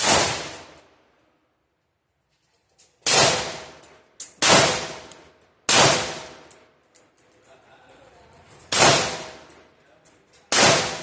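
Six gunshots fired one at a time at uneven intervals, each a sharp report followed by a short ringing tail.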